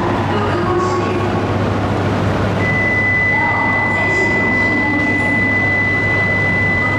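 Shinkansen bullet train running at a station platform: a steady rumble with a low hum, joined about two and a half seconds in by a steady high-pitched tone.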